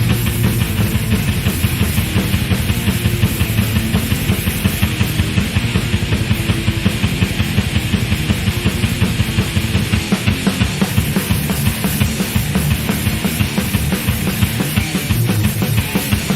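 Instrumental thrash metal: distorted electric guitars, bass and fast, dense drumming, with no vocals.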